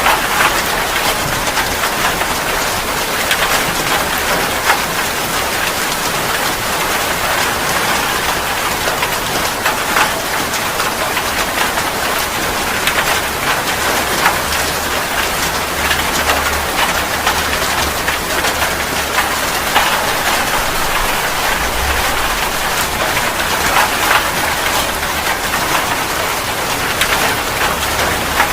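Steady heavy rain falling on a surface: an even hiss with many separate drops ticking through it. A faint low rumble comes and goes underneath.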